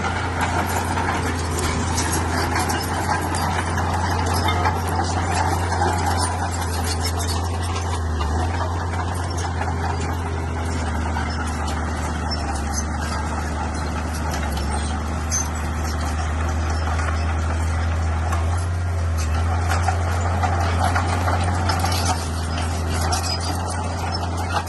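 Bulldozer's diesel engine running steadily with an even low drone.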